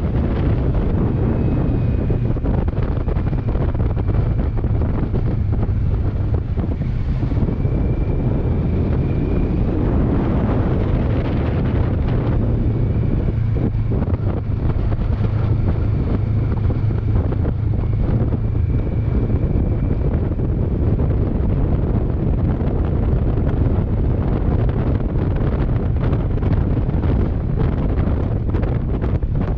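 Wind buffeting the microphone at riding speed, over the steady drone of a Kawasaki Versys 650's parallel-twin engine.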